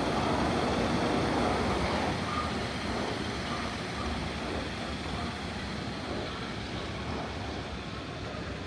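A vehicle running past, a steady noise without a clear pitch that is loudest near the start and slowly fades.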